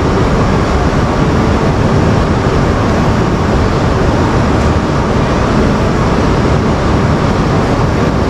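Steady, loud noise from a coupled shinkansen standing at the platform, with no distinct knocks or moving parts; the coupler has not yet begun to separate.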